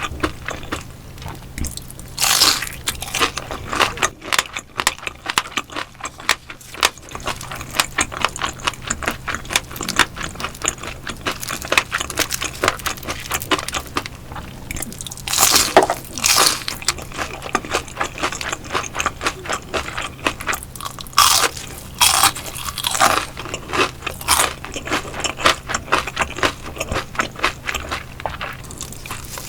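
Close-miked crunchy chewing and biting of crisp cooked fish, a dense run of crackles with several louder bites.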